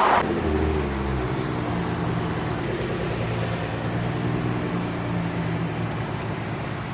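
A car engine running steadily at low revs, a deep rumble that is heaviest about half a second to a second in, then settles into an even hum that slowly fades.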